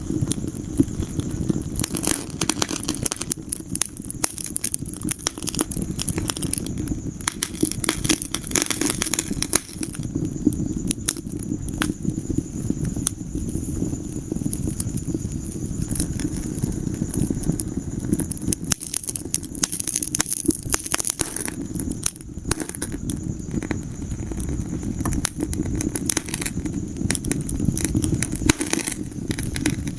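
Wood fire burning in a fireplace, crackling and popping with many irregular sharp snaps over a steady low rumble of the flames.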